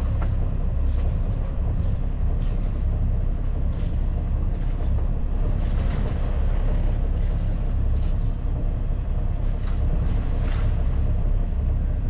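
A sailboat's inboard diesel engine running steadily at motoring speed, a low, even drone.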